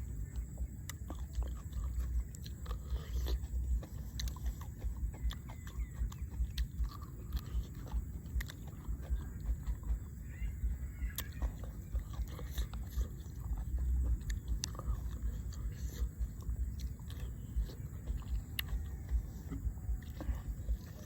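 A person biting and chewing a spicy mixed-seafood pounded salad and crisp raw vegetables, with many short crunches and clicks scattered throughout.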